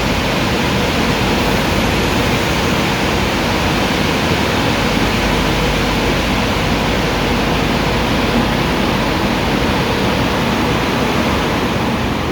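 Car Beautician BMC Royal Waxer car wash machine running, a loud steady rushing noise with a faint hum.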